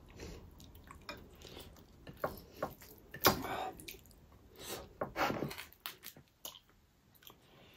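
Close-up eating sounds: wet chewing, biting and sucking on a pork trotter, with scattered smacks and small clicks, the loudest about three seconds in.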